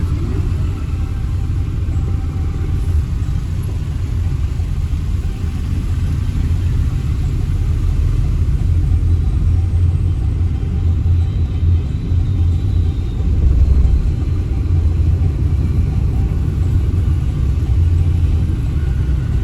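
Steady low rumble of a car being driven, road and engine noise.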